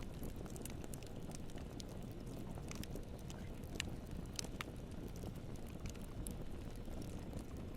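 Campfire burning: a steady low noise of the flames with scattered sharp crackles and pops from the burning wood.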